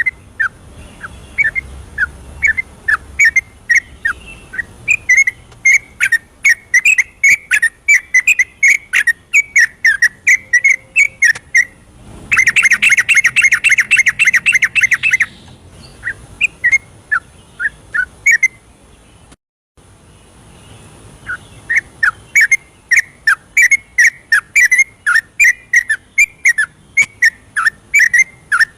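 Yellow-vented bulbul singing a long, rapid run of short whistled notes, about four a second, breaking into a dense unbroken chatter for about three seconds near the middle. The song cuts out briefly about two-thirds of the way in and then picks up again.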